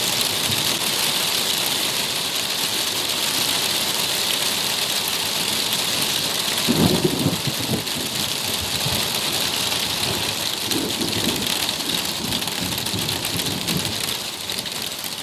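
Heavy rain falling steadily, with a rumble of thunder about seven seconds in and weaker rumbling a few seconds later.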